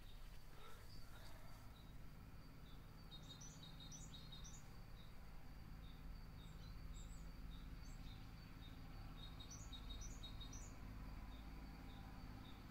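Faint ambience of small birds chirping in short repeated clusters of high notes, over a low steady rumble.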